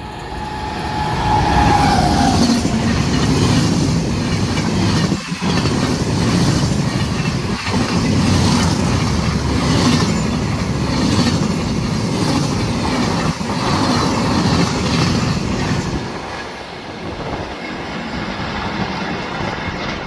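A train passing close by, its wheels clattering rhythmically over the rail joints amid a steady rushing noise, easing off near the end.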